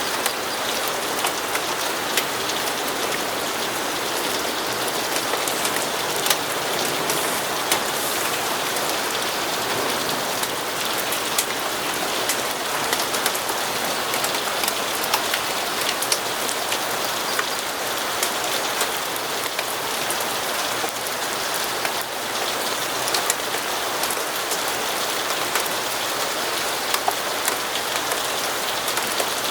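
Steady rainfall, an even hiss with many small sharp ticks of drops striking a surface.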